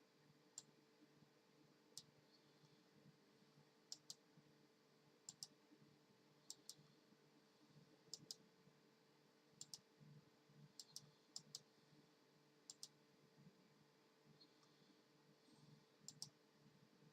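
Faint sharp clicks, some single and some in quick pairs, coming at irregular intervals about a second apart.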